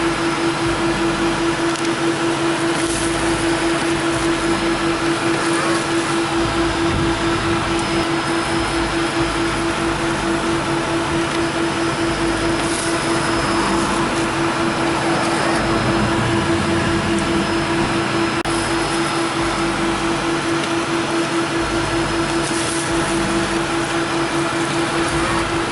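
Touchless car wash machinery running steadily: a constant hum with a rapidly pulsing mid-pitched tone over a broad whooshing haze.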